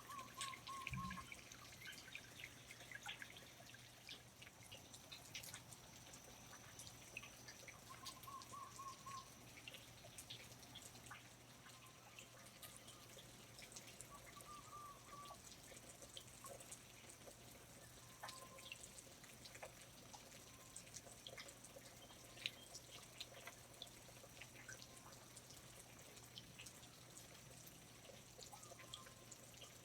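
Faint rainforest ambience: water dripping irregularly from leaves, with a few short warbling bird calls now and then.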